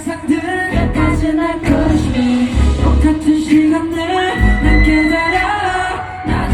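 Live K-pop concert performance: a pop song with singing over a heavy, pounding bass beat, played loud through the hall's sound system.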